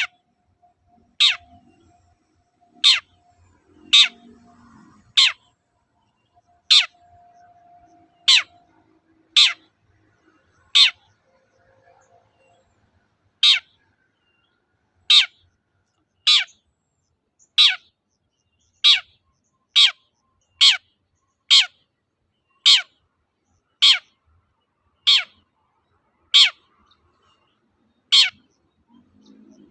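Long-tailed shrike (cendet) repeating a sharp, steeply falling call roughly once a second, with a short pause in the middle, about twenty calls in all.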